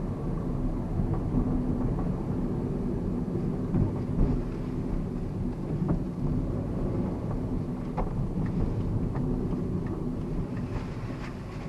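Cabin noise of a moving 2009 Mazda Verisa: a steady low rumble of tyres and engine, with a faint hum and a few light ticks and knocks from the interior.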